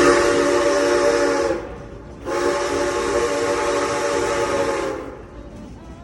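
Steam locomotive whistle blowing two long blasts with a hiss of steam. The first blast is already sounding and stops about a second and a half in; the second starts just after two seconds and stops about five seconds in.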